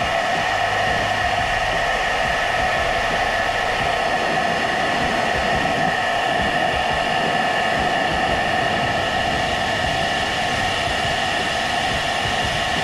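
Philips SenseIQ hair dryer running steadily on its gentle setting: a constant rush of air with a steady motor whine over it.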